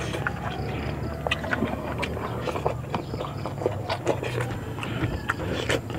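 Close-miked chewing and lip-smacking: frequent short, wet mouth clicks, over a steady low hum.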